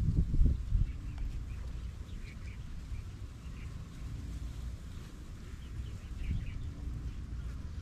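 Faint short bird chirps, a few scattered calls, over a steady low outdoor rumble; a brief louder low buffeting comes right at the start.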